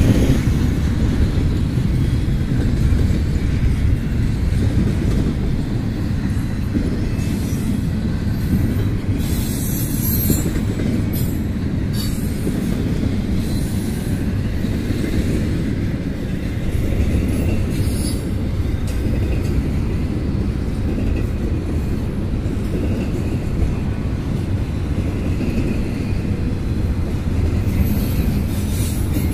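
Intermodal freight train rolling past at a crossing: a steady low rumble of wheels on the rails, with brief high-pitched wheel squeals now and then.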